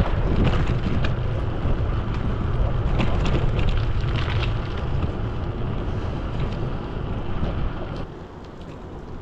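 Wind buffeting the microphone on a moving bicycle, with scattered ticks and rattles. It drops to a quieter hiss near the end.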